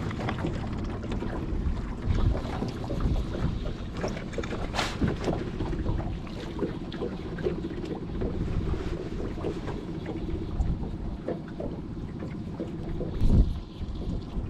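Small fishing boat's motor running steadily at trolling speed, with wind buffeting the microphone. Scattered knocks and clatter in the boat, the loudest a thump near the end.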